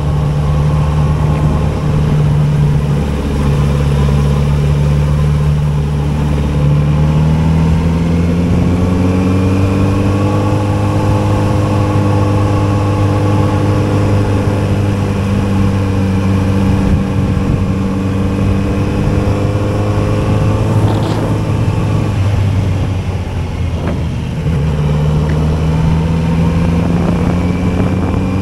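Kawasaki Z900RS 948 cc inline-four engine running on the move. Its pitch climbs about a quarter of the way in and holds, then drops with a brief dip in loudness near the end before climbing again as the revs pick back up.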